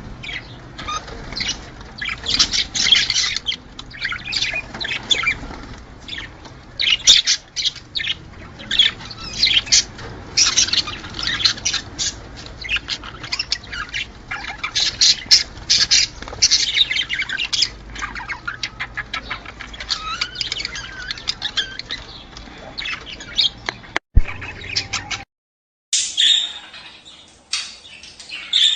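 A flock of budgerigars chattering and warbling, with many sharp squawks and chirps. Near the end there is a click and a brief drop-out, then the chatter picks up again, sounding brighter.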